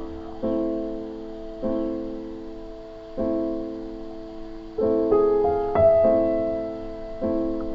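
Music: a piano playing slow repeated chords, one every second or so, each struck and left to fade, with a short run of higher notes about five to six seconds in.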